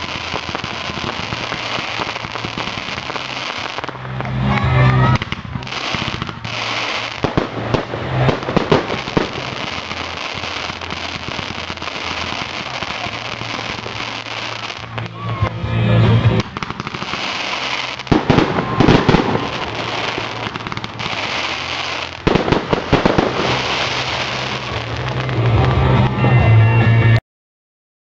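Fireworks going off: dense, continuous crackling with louder bangs every few seconds. The sound cuts off suddenly near the end.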